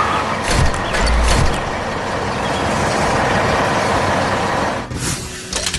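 Heavy excavator engine running as a steady, noisy machine sound, with a deep low rumble about a second in; it dies away shortly before the end.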